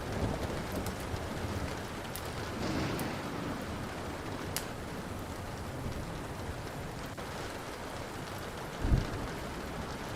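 Steady rain with rolling thunder rumbling low, a short deep boom of thunder about nine seconds in, and a few sharp pops of a wood fire crackling.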